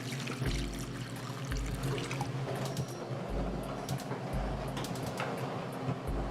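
Water running, with background music under it.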